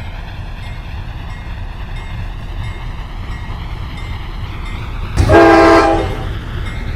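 Train running with a steady low rumble; about five seconds in, the locomotive's air horn gives one short blast, under a second long and much louder than the rumble.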